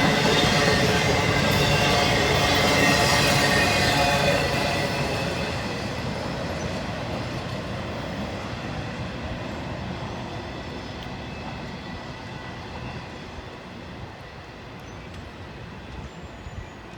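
Freight train cars rolling past on the rails with a rumble and thin, high squealing tones from the wheels. The sound stays loud for about four seconds, then fades steadily as the train moves off.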